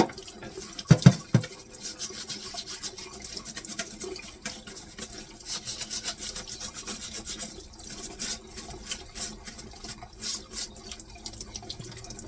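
A few sharp plastic clacks about a second in, then a bristle brush scrubbing a dishwasher's filter screen in quick, repeated strokes.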